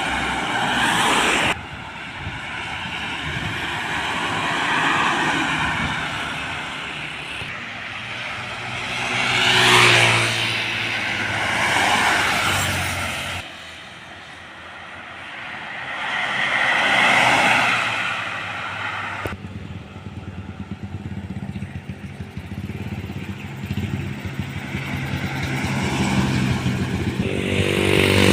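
Large trucks and buses driving past one after another, their engines swelling and fading with the pitch sweeping as each goes by. The sound changes abruptly several times, as separate passes are cut together.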